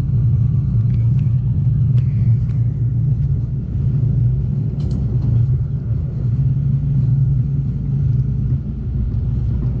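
Amtrak Cascades passenger train running along the track: a steady low rumble.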